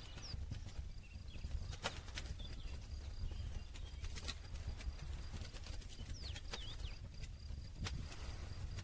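Wood campfire crackling: irregular sharp pops and snaps over a low steady rumble of the burning fire, with a few faint high chirps near the start and again about six seconds in.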